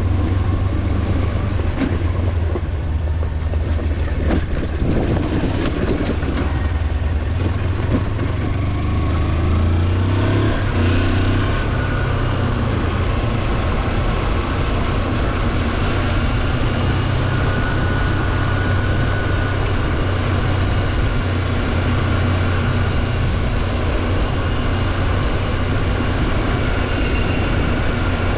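Kawasaki Versys-X 300's parallel-twin engine running steadily under way, with the bike's high-pitched whine over the exhaust note.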